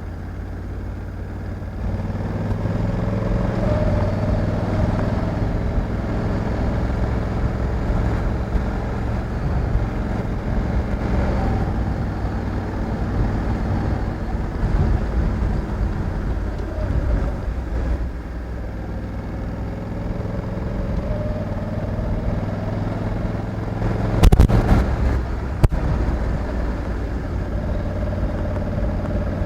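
Honda Africa Twin 1100's 1,084 cc parallel-twin engine running steadily while riding, getting louder about two seconds in. A brief loud burst of noise comes near the end, followed by a single click.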